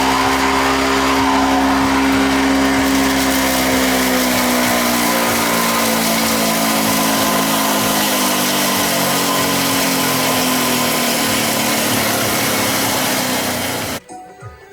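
Homemade leaf and grass chopper, driven by a 200-watt washing-machine motor, running with its cutting blade spinning as it chops leaves: a steady hum over a loud hiss. The hum slowly drops in pitch, then the sound cuts off suddenly near the end.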